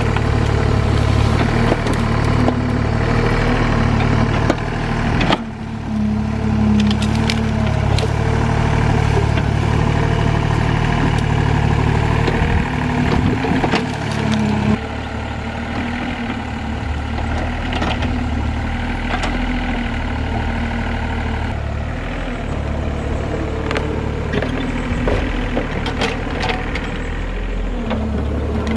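Hydraulic excavator's diesel engine running steadily while it works, with scattered knocks and clanks. The engine sound changes abruptly about five seconds in and again about fifteen seconds in, dropping lower and quieter at the second change.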